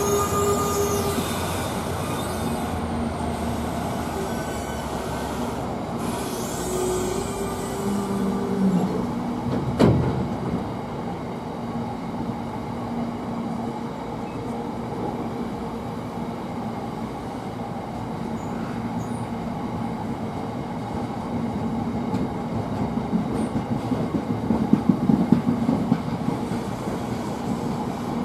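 Freight train wagons rolling slowly past, with wheels squealing in short held tones and clanking over rail joints and points. There is a sharp knock about ten seconds in and a run of louder clacks near the end.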